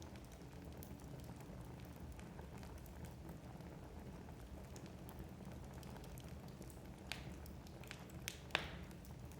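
Wood fire crackling in a fireplace: a low steady burning rumble with many small scattered pops, and a few louder sharp pops near the end.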